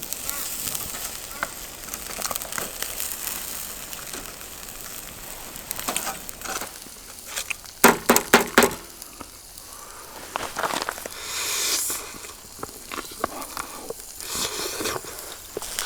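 Campfire crackling and hissing, with a quick run of loud sharp knocks about eight seconds in.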